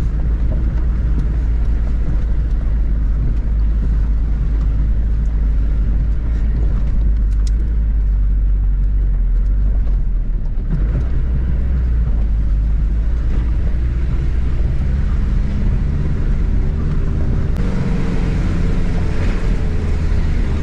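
A camper van's engine heard from inside its cab, running hard with the accelerator held down while it is towed up a steep grade. The low engine drone is steady, and its pitch shifts about halfway through and again later on.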